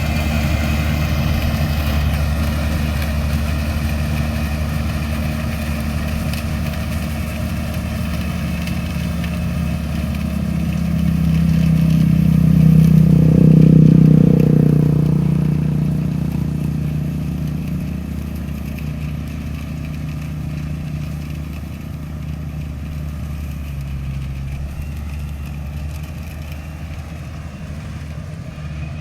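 Rice combine harvester's engine running steadily while harvesting. It swells louder around the middle, then eases off again.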